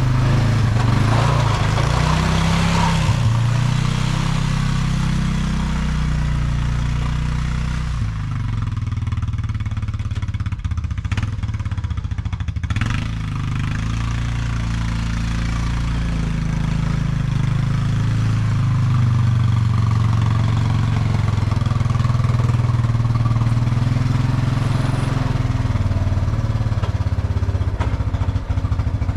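ATV engine running while plowing snow, its pitch rising and falling with the throttle.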